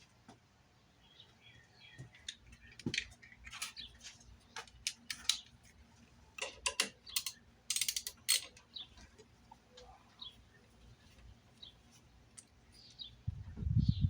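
Irregular clicks and light clattering of parts and tools being handled while taking the car apart, busiest in the middle, with a low rumble and a thump near the end.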